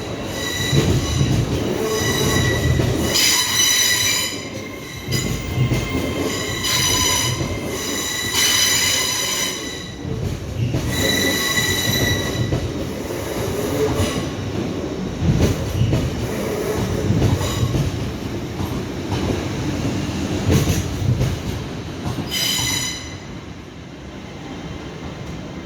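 A train moving slowly over the rails with a low rumble and repeated high-pitched wheel squeals that come and go, fading somewhat near the end.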